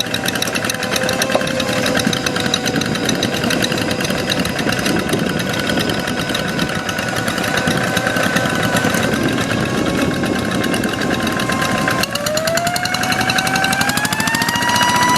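Single-cylinder diesel engine of a two-wheel hand tractor running with a rapid, even chugging; about twelve seconds in the engine speeds up, its pitch rising smoothly over the last few seconds.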